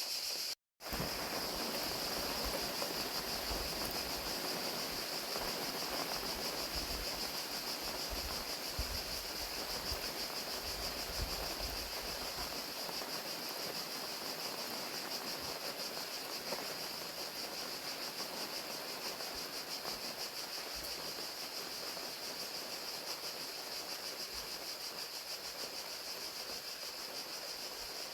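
Crickets trilling steadily, a continuous high-pitched band, over the even hiss of falling rain. The sound drops out to silence for a split second near the start.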